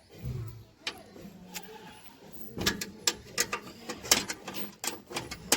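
Irregular metallic clicks and knocks of hand tools working on a tractor's jammed steering, with a low thud near the start.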